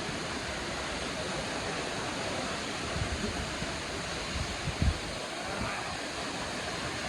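Steady rushing of a waterfall, with a few low thumps on the microphone about three seconds in and again just before five seconds.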